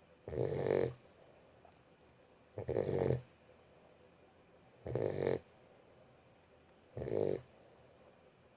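Boxer puppy snoring in its sleep: four snores about two seconds apart, each lasting about half a second.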